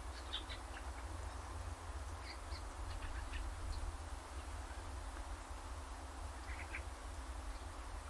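Small birds giving short, high chirps in scattered clusters over a steady outdoor background with a low rumble and a soft hiss.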